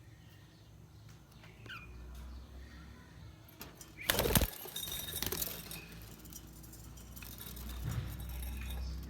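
Budgerigars chirping faintly now and then, with a short loud burst of wing flapping about four seconds in.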